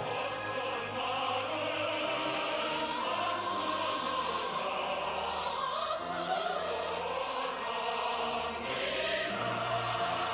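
Operatic music: singers holding long, gently sliding notes over an orchestra.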